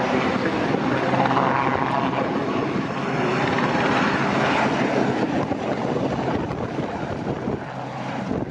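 Sea King helicopter's twin turboshaft engines and rotor running loud and steady in flight, easing off slightly near the end.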